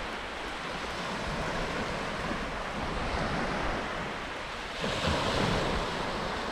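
Ocean surf washing onto a beach, a steady rush with wind buffeting the microphone; a wave breaks more loudly about five seconds in.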